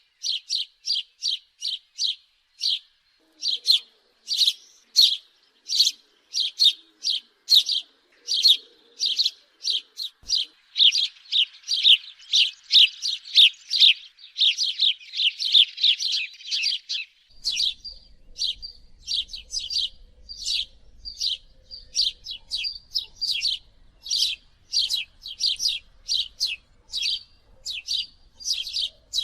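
House sparrow chirping over and over, two to three short chirps a second. The chirps crowd together and overlap for several seconds in the middle.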